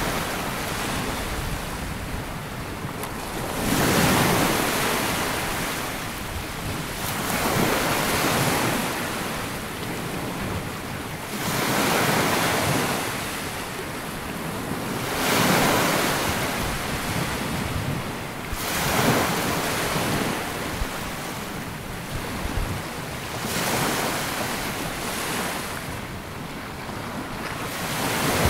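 Small waves breaking on a sandy beach, a surge of surf every three to four seconds with the wash hissing up and back in between, with some wind noise on the microphone.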